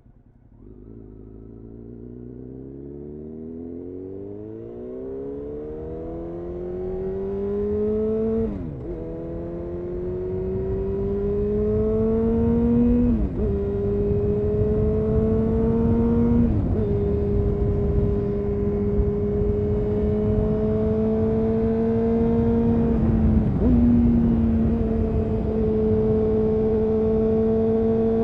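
2000 Honda CBR929RR Fireblade's inline-four running through an Erion full racing exhaust under way. The engine note climbs steadily and grows louder over the first eight seconds. It then dips briefly at gear changes about 8, 13, 17 and 23 seconds in, holding a fairly steady pitch in between.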